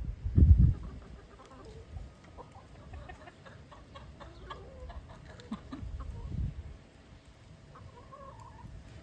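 Domestic hens clucking in short, soft calls while feeding, with one longer rising-and-falling call near the end. A loud low bump about half a second in and a lesser low rumble around six seconds.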